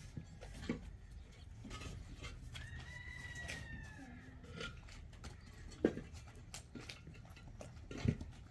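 A rooster crowing once, a single arched call lasting about a second and a half, starting about two and a half seconds in. A few sharp knocks sound around it, the loudest near the end.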